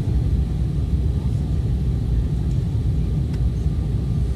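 Airliner cabin noise: a steady, even, low rumble of engines and airflow.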